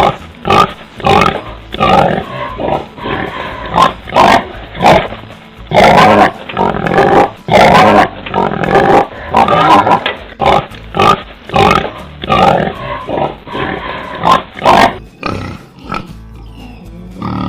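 Pig grunting in a rapid, irregular series of short, loud calls, about two a second.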